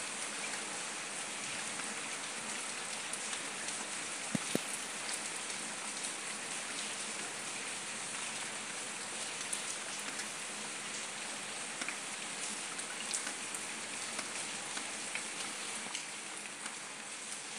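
Steady rain falling on paving stones and shrub leaves: a dense, even hiss sprinkled with small drip ticks, with a couple of sharper ticks about four and a half seconds in.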